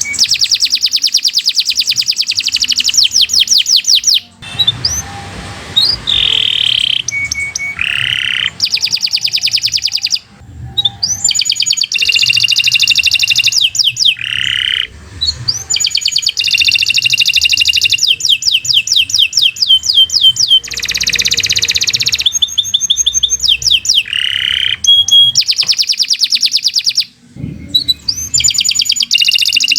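Domestic canary singing a long song of rapid, high-pitched trills and rolls, broken by a few short pauses.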